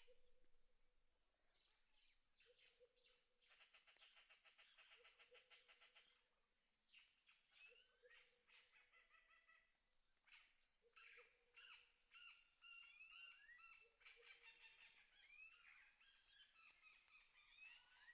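Faint countryside birdsong: several birds chirping and trilling with short rising and falling calls, and a short low call that repeats every couple of seconds. A thin, steady high tone runs underneath.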